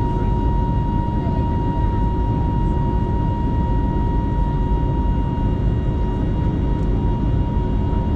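Steady cabin noise of an Airbus A320 climbing after takeoff: a deep, even rush of engines and airflow with a thin steady whine above it.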